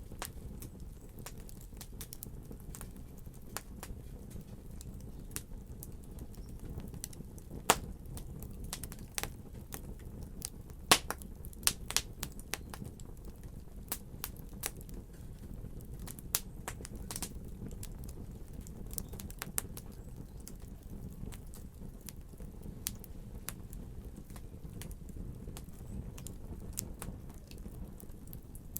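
Wood fire crackling, with a steady low rumble and irregular sharp pops, a few louder snaps about 8 and 11 to 12 seconds in.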